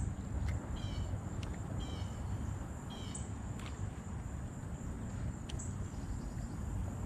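Outdoor waterside ambience: a bird gives a short call three times, about a second apart, over a steady high-pitched insect buzz and a low rumble, with a few faint clicks.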